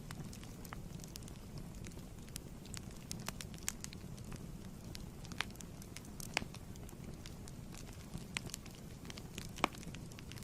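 Wood fire crackling in a fireplace: a steady low rumble of flames with irregular sharp pops and snaps, one louder pop near the end.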